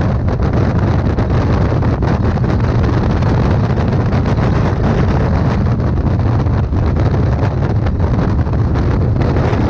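Steady wind buffeting on a motorcycle-mounted camera's microphone at riding speed, with the motorcycle's engine and road noise running underneath as a dense low rumble.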